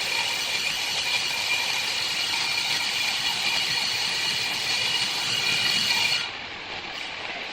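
Steady whirring and hissing of woodworking machinery running. About six seconds in it cuts suddenly to a quieter, duller machine sound.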